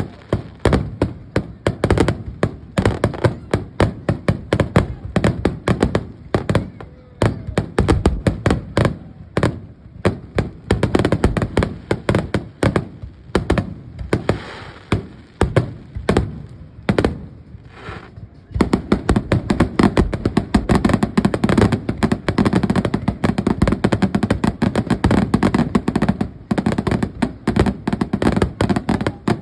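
Fireworks going off in quick succession: many sharp bangs and pops, overlapping one another. About two-thirds of the way through they merge into a dense, near-continuous barrage.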